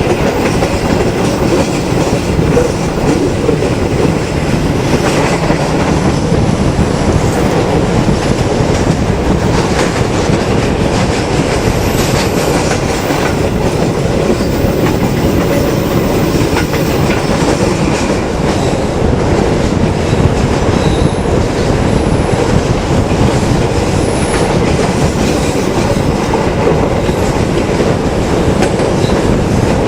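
Harina passenger train running along the track, heard from aboard: a steady, loud noise of wheels on rails with no break.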